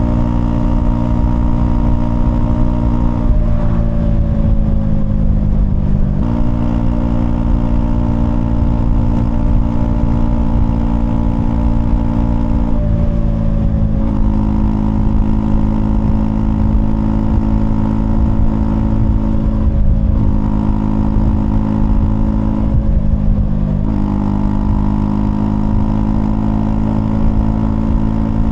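Honda CL250's single-cylinder engine running on the move. The note dips and changes pitch about four times, as the throttle and gears change.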